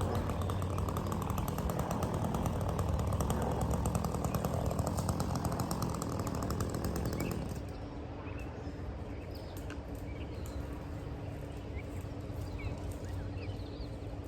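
Gas chainsaw running steadily, then dropping to a quieter, lower running sound about halfway through.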